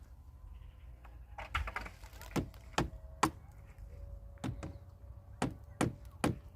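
Irregular sharp knocks of a tool striking wood: a quick flurry about a second and a half in, then single blows every half second or so. A faint steady tone sits under the middle of it.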